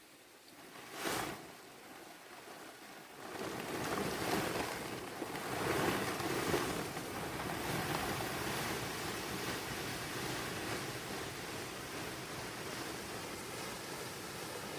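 Rain falling steadily, a rushing hiss that sets in about three seconds in, swells, and then holds, after a short whoosh about a second in.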